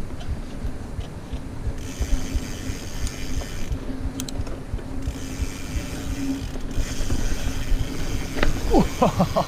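Mountain bike's rear freehub ratcheting in two long stretches while coasting, over a steady rumble of tyres on the trail and wind on the microphone. Near the end come a few quick falling squeaks.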